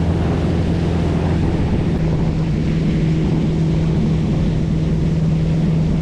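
Motorboat engine running with a steady, even drone, mixed with wind buffeting the microphone and the rush of water.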